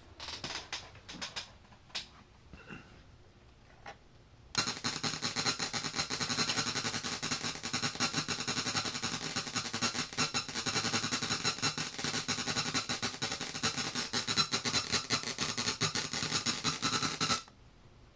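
Glitchy digital noise from an RME Fireface UFX audio interface: a few scattered clicks, then about four and a half seconds in a loud, dense crackling that runs on until it cuts off suddenly near the end. These are the unwanted weird sounds the interface is putting out.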